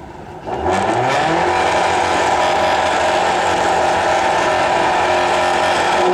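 Rally car engine accelerating hard: about half a second in the sound comes up loud and the engine note climbs quickly, then it holds at high revs.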